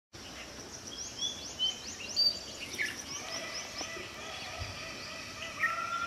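Wild birds calling in woodland: a quick series of short, high rising chirps with a few brief high whistles mixed in, then from about halfway a repeated lower arching call.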